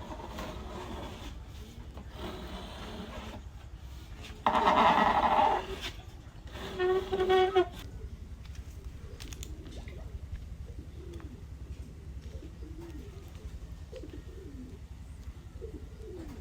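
Bird calls over a steady low hum: two loud calls about four and a half and seven seconds in, then faint short chirps.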